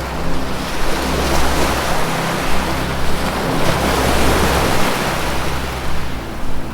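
Ocean waves washing in, a steady surging rush of surf, over a low sustained music drone.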